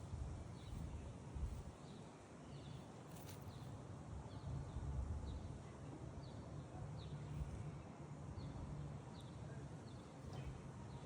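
Outdoor background: a steady low rumble with short, high, falling chirps repeating roughly once a second.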